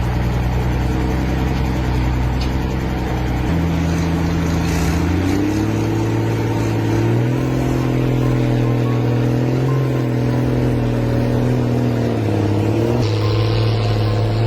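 Tractor engine running hard at high revs, its pitch shifting up and down several times.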